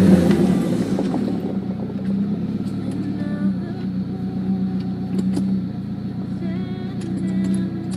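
1996 Saab 900 SE Turbo's turbocharged four-cylinder engine through a Cherry Bomb dual exhaust, easing off about a second in and then running at a steady, even low note.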